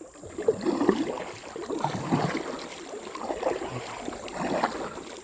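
Creek water splashing and gurgling around a kayak in short, irregular splashes.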